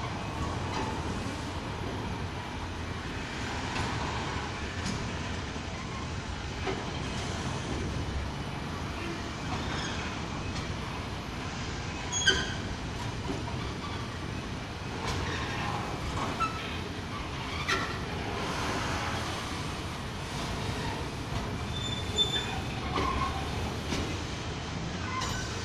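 Covered car-carrier freight wagons rolling across a street level crossing: a steady rumble of wheels on rail, with scattered clicks and a few brief high wheel squeals.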